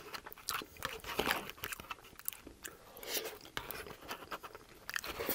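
Close-miked chewing of a mouthful of food, with irregular short clicks and wet mouth noises, while a metal spoon scrapes food from a cardboard tray.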